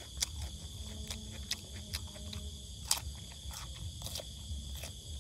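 A person chewing with the mouth open while eating cucumber and rice: a run of irregular wet clicks and smacks, with one sharper click about three seconds in.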